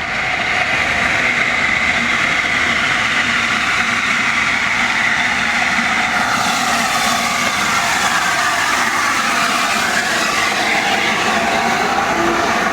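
A train running along the track: a steady, loud noise of wheels on rails.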